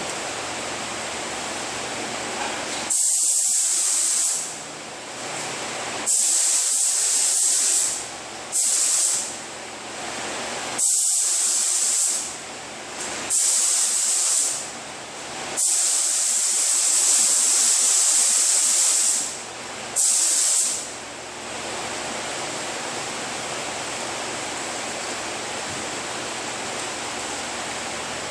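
Compressed-air paint spray gun triggered in seven passes, each a loud hiss lasting from about half a second to three and a half seconds, the longest about 16 seconds in. A steady background hiss runs underneath.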